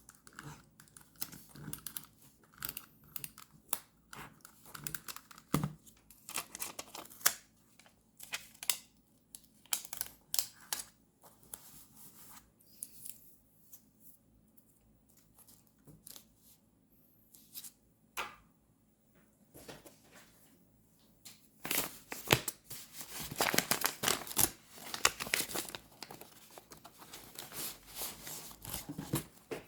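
Paper being handled and torn: scattered taps and crinkles, then a longer spell of louder rustling and tearing about two-thirds of the way through.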